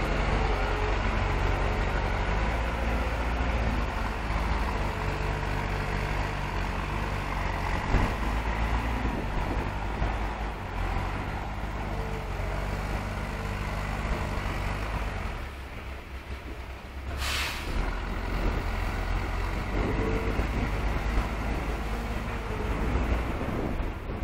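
Heavy diesel engines of the telehandlers and truck running steadily under work, dipping briefly about two-thirds of the way through, followed by a short hiss of released air.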